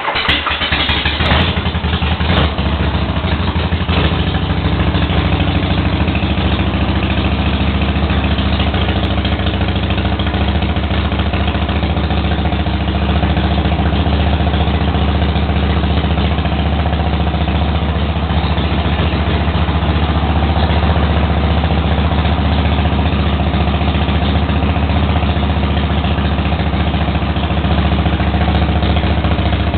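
Freshly rebuilt 80-cubic-inch Harley-Davidson shovelhead V-twin running on its first start-up after an overhaul with oversize pistons, new rings and a valve job. It runs a little unevenly for the first few seconds, then settles into a steady idle.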